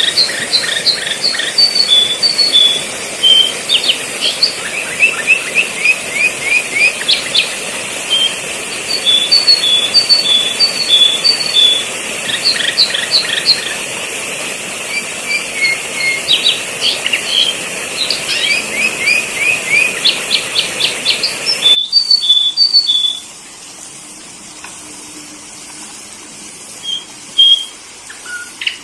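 Sooty-headed bulbul calls: rapid runs of short, high chirps and trills, repeated over and over as a lure call. About 22 s in, the background hiss cuts off suddenly and only a few single chirps follow.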